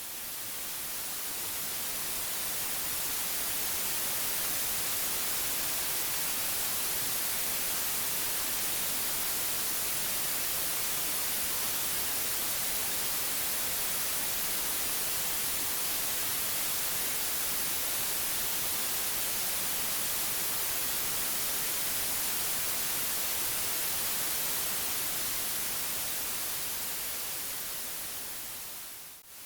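Steady white noise: an even, featureless hiss strongest in the high frequencies. It swells up over the first few seconds and eases down near the end, dipping almost to nothing for a moment at the seam of a repeating loop.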